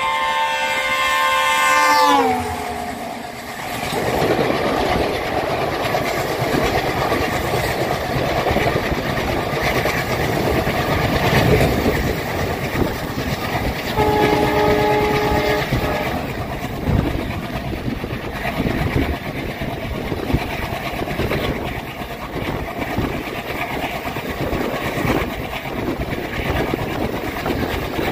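A train horn sounding in several tones for about two seconds, its pitch sliding down as it ends. Then comes the steady rumble and clatter of an express train's wheels running over the rails at speed, with a second, shorter horn about fourteen seconds in.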